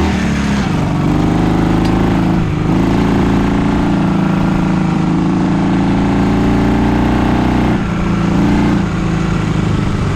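Dnepr MT-11 sidecar motorcycle's flat-twin engine running close by, its revs changing about two and a half seconds in and again near the end.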